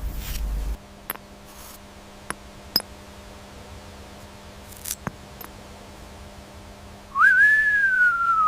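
Low rumbling noise that stops under a second in, a few sharp clicks, then, about seven seconds in, a single loud whistle that rises briefly and slowly falls in pitch.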